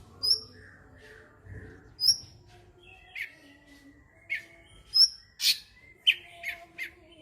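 Cucak cungkok songbird singing: short, sharp, loud chirps and whistled notes, a few spaced out at first, then coming quickly one after another in the second half.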